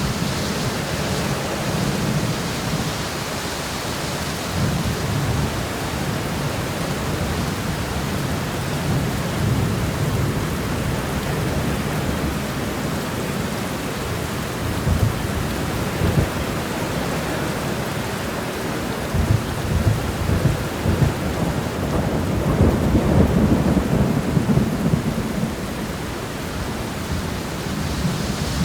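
Steady rain shower falling, with a low rumble that swells and rolls about two-thirds of the way through.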